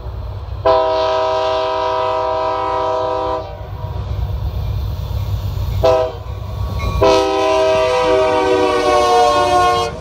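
Norfolk Southern diesel freight locomotive's multi-chime air horn sounding a long blast, a short one, then another long blast, over the low rumble of the passing train. The chord sags in pitch partway through the last blast.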